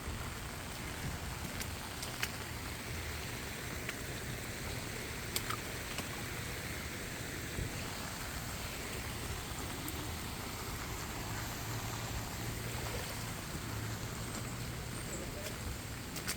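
Steady rain falling, with floodwater running, and a few faint drip-like ticks.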